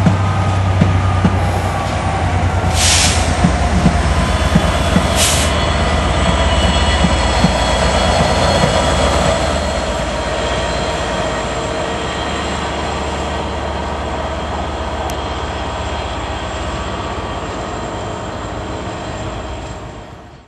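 Locomotive-hauled passenger train passing at speed, with a Class 67 diesel locomotive and silver coaches. There is a steady low engine hum and wheels clicking over rail joints, with two short bursts of hiss a few seconds in. The rumble fades out abruptly at the end.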